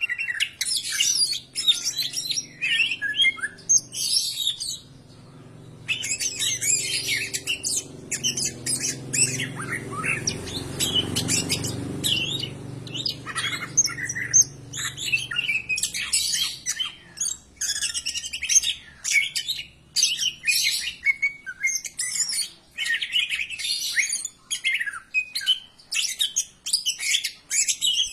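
Cucak ijo (green leafbird) singing: a fast, varied run of chirps and harsher squawky notes that goes on almost without a break, with a short pause about five seconds in.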